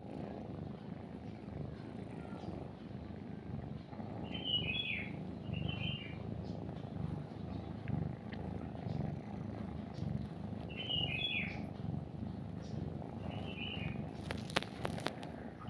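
A cat purring steadily, a low rumble that pulses in time with its breathing, while a bird chirps in four short groups of falling notes. A brief scratchy rustle comes near the end.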